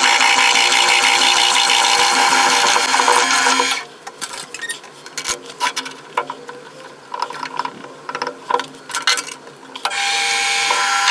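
A power tool running on metal work, stopping a few seconds in. Scattered clicks and knocks follow, and the machine starts up again near the end.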